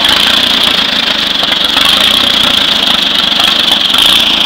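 Engine of a 1937 Allis-Chalmers tractor running steadily at idle with its gas shut off, running on the fuel left in it.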